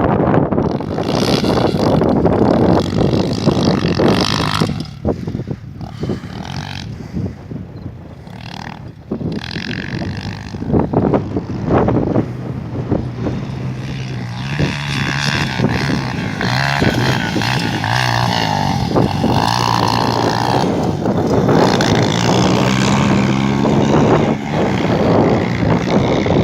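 Motocross motorcycle engines running and revving, the level dipping for a few seconds before rising again.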